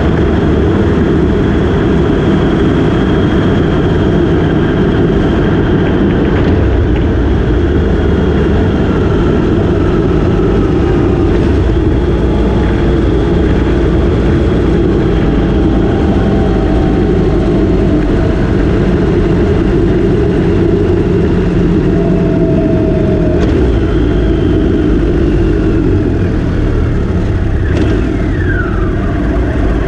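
Motorcycle running at road speed, with heavy wind rush on the microphone. The engine note rises and falls gently, and near the end a higher tone sweeps quickly downward.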